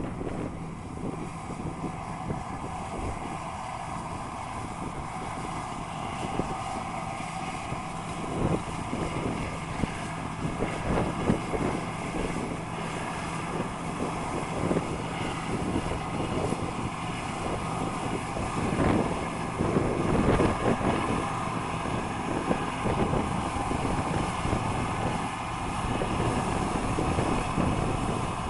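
Farm machinery engine running steadily, with wind buffeting the microphone in irregular low gusts.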